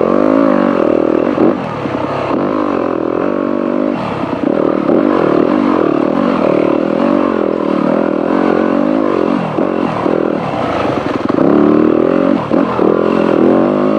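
Dirt bike engine under constant throttle changes, revving up and dropping back again and again, its pitch rising and falling every second or two.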